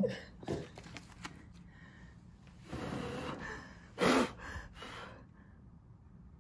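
A few light clicks and rustles of handled paper, then a long rush of breath and a short, loud puff of breath about four seconds in.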